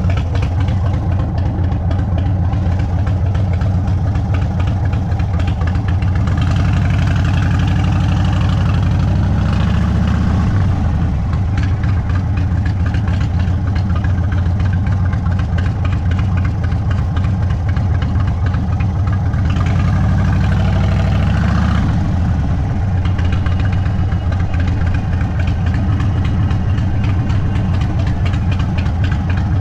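Indian Sport Chief motorcycle's Thunderstroke 116 V-twin, stage 2 tuned, through a Sawicki Speed exhaust, running at low revs. The revs rise and fall twice, about a third and about two-thirds of the way through.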